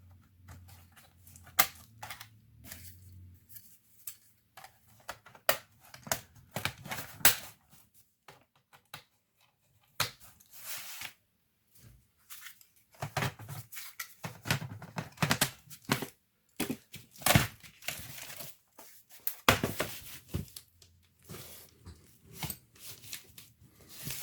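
Hands working on a laptop: irregular sharp plastic clicks and knocks mixed with bursts of rustling and crinkling, the loudest knocks coming in clusters a few seconds apart.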